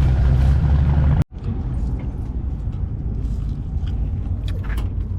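Music that breaks off abruptly a little over a second in, followed by a car's engine running steadily at a low rumble, with a few faint clicks.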